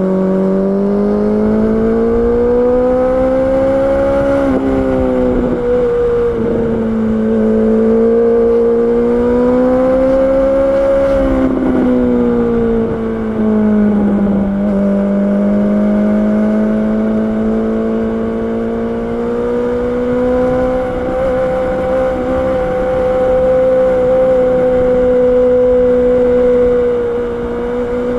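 Honda CB650R's inline-four engine running under way, its pitch slowly rising and falling with the throttle, with a few brief drops in pitch, then holding fairly steady.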